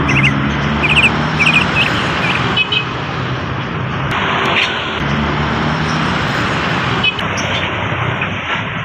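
Bali myna (Bali starling) giving a series of short, sharp chirps in the first few seconds, with a few fainter calls later. Under them runs a steady low hum and loud background noise.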